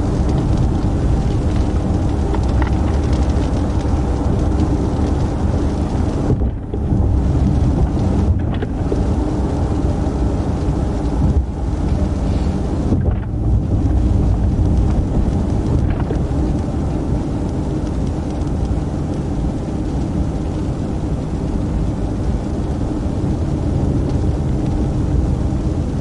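Steady low rumble of road and engine noise inside a moving patrol car, with a few brief dips in the first half.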